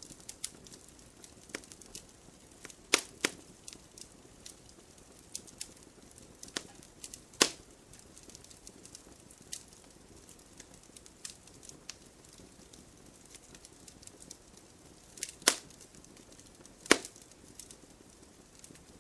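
Wood campfire crackling, with irregular sharp pops over a faint low hiss; four louder pops stand out, the last two close together near the end.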